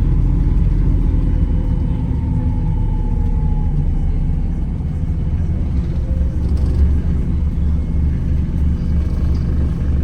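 Hybrid double-decker bus running along, heard on board: a steady low rumble of engine and road, with a faint tone that slowly falls in pitch a couple of seconds in.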